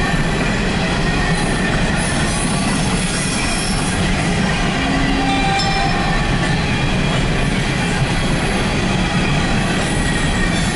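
Empty CSX coal cars rolling past at close range: a loud, steady rumble and rattle of steel wheels on rail, with a few brief high wheel squeals.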